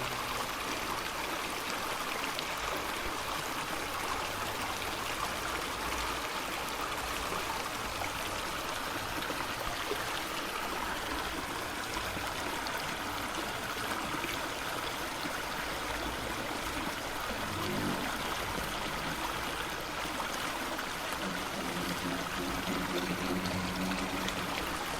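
Steady rushing water, an even wash of noise, with two short pitched sounds in the second half.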